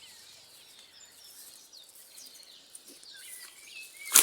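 Wild birds chirping in short calls over a quiet outdoor background, with one sharp knock near the end.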